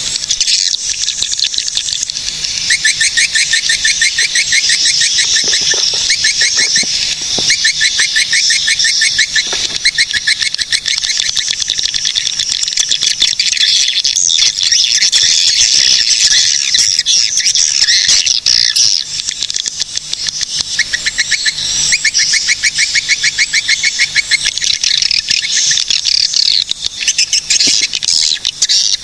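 Swiftlets calling together: dense, overlapping rapid chattering trills and twitters, high-pitched and unbroken.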